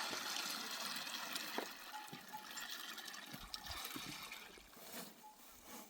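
Water running or trickling, a steady hiss that slowly fades.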